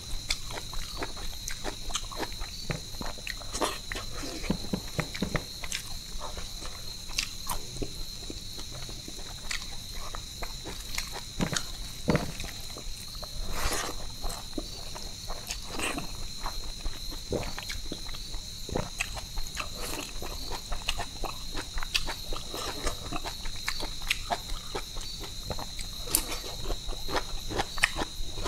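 Close-miked chewing and wet mouth sounds of a person eating rice by hand, with frequent irregular soft clicks and smacks. Behind them runs a steady high-pitched insect drone.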